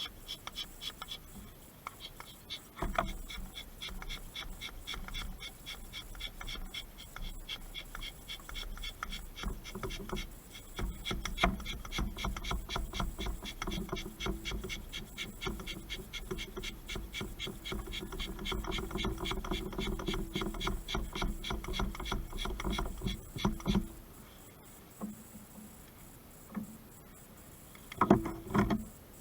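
Hand bicycle pump worked in quick repeated strokes with a rasping rub, forcing smoke into the engine for a smoke test to find an air leak. It stops about 24 seconds in, followed by a few knocks near the end.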